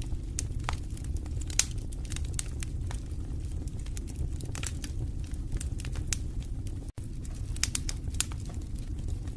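Wood fire in a fireplace crackling: irregular sharp pops and snaps over a steady low rumble of the flames, with a split-second dropout about seven seconds in.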